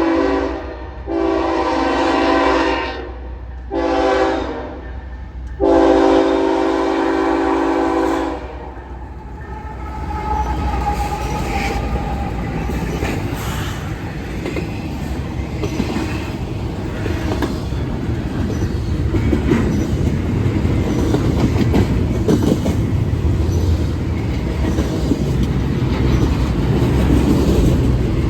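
A diesel freight locomotive's air horn sounds the long, long, short, long grade-crossing signal. The train then rolls past, its wheels clattering over the rail joints over a steady low rumble.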